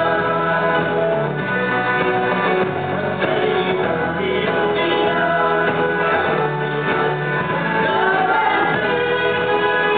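Live band playing a song, with guitar and singing.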